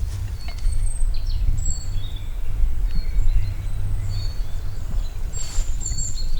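Wild birds calling in short, high chirps and whistles over a steady low rumble.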